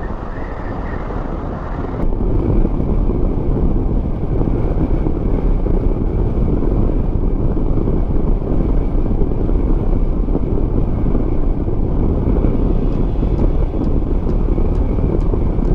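Strong wind buffeting the microphone of a moving motorcycle, over the bike's engine and road noise. It steps up in loudness about two seconds in and then stays steady.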